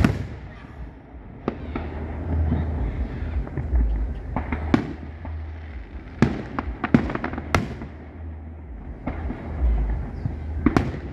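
Fireworks show aerial shells bursting overhead: about ten sharp bangs at irregular intervals, each with an echoing tail, including a quick cluster around the middle.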